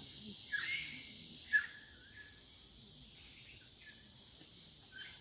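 A bird giving short chirping call notes, a few in quick succession with the sharpest about one and a half seconds in, then fainter scattered notes. Behind them runs a steady high-pitched hiss.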